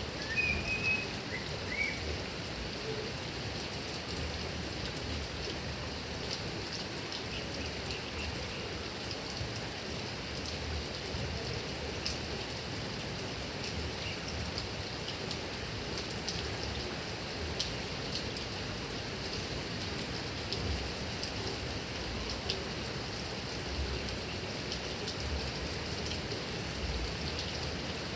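Heavy rain falling steadily on grass and coconut palms, an even hiss with scattered sharper drip ticks.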